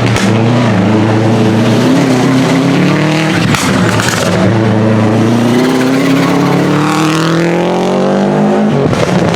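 Historic rally car's engine at high revs on a special stage, accelerating hard through the gears: a shift about three and a half seconds in, then the revs climb steadily for several seconds and drop again near the end.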